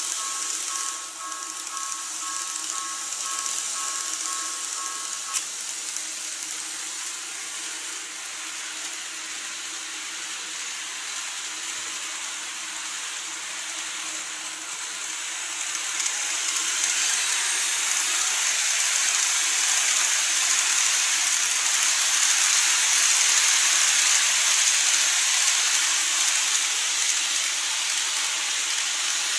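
N-gauge model train running on the layout: a steady hissing whirr of motor and wheels on rail that grows louder from about halfway as the train comes nearer. For the first five seconds a pulsing high tone sounds alongside, ending with a click.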